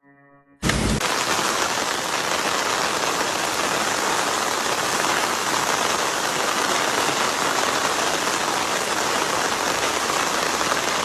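Heavy rain falling steadily, starting abruptly about a second in.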